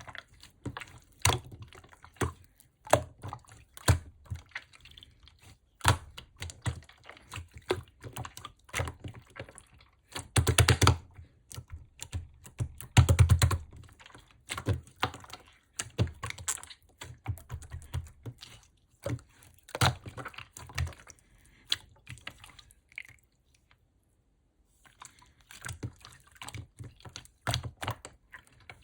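Hands squeezing and pressing slime, making many quick sticky clicks and pops, with two dense, louder runs of clicking a little before halfway and a brief pause near the end.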